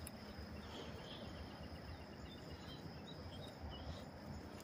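Quiet outdoor ambience: a steady high insect-like hum, faint scattered bird chirps and a low rumble underneath.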